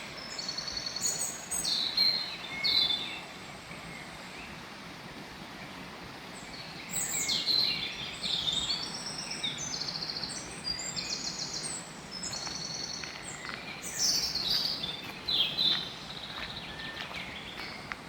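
Songbirds singing in several phrases of fast, high trilled notes, in three bouts, over steady outdoor background noise.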